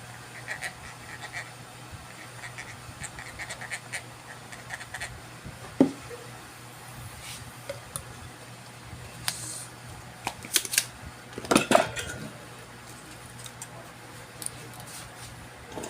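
Small metal tools clinking, tapping and scraping on a workbench during circuit-board repair, in scattered clicks with a few louder knocks around the middle, over a steady low hum.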